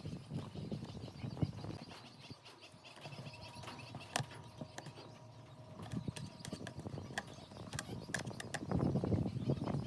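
Scattered light clicks and taps over a faint steady hum, with a louder noisy rush starting near the end.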